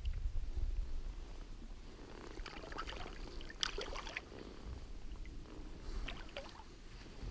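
Scattered small clicks and knocks of handling in a small fishing boat over a low rumble, in two clusters, the second near the end.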